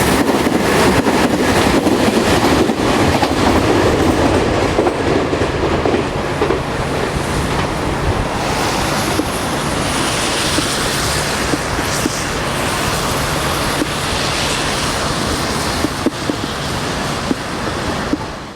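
Meitetsu 2000 series 'μSKY' electric train running on the track, wheels clicking over rail joints with a steady hum. The clicking is densest in the first few seconds and the sound eases a little after about six seconds.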